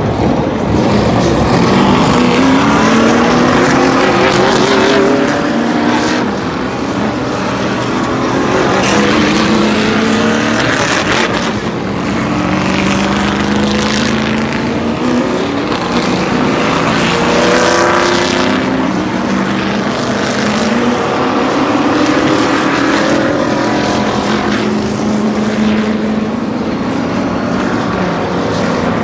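NASCAR Cup stock cars' V8 engines at racing speed, many cars at once. The sound rises and falls in waves every few seconds as groups of cars go by.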